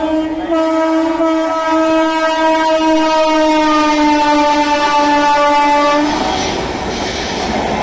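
Train horn sounding one long blast, with a brief break near the start, its pitch drifting slightly lower, cutting off about six seconds in. The noisy rush and wheel clatter of the train passing at high speed follows.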